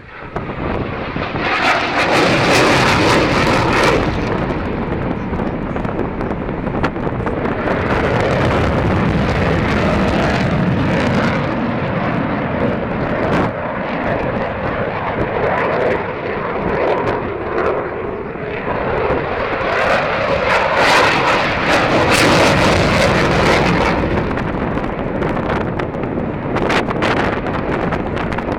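Eurofighter Typhoon's twin EJ200 turbofan jet engines heard from the ground during a flying display, a broad jet noise that swells loudest about two seconds in and again about twenty seconds in, easing between, with gusts of wind on the microphone.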